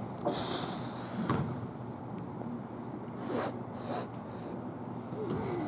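Gym ambience during a basketball game: a steady low background with a few scattered knocks and short hissing scuffs.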